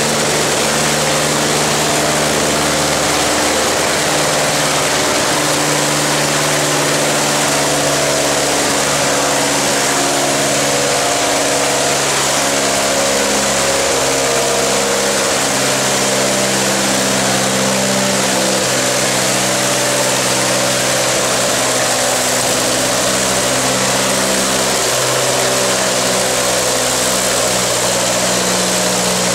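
Antique farm tractor engine running steadily and loudly, its note holding at a near-constant pitch, over a dense hiss.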